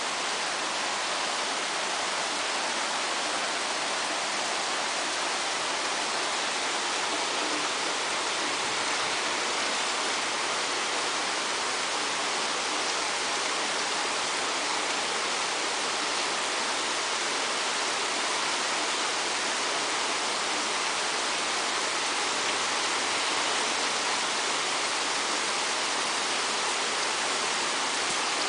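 Steady rain falling: an even hiss that holds at the same level throughout.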